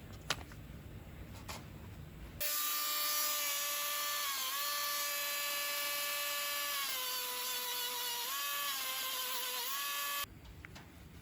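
High-speed electric power tool motor whining. It starts abruptly, runs for about eight seconds with its pitch sagging briefly several times as if pressed into work, and stops abruptly.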